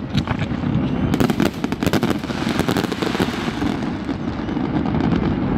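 Fireworks display bursting and crackling: a dense run of sharp cracks and pops about a second in, over a steady low rumble.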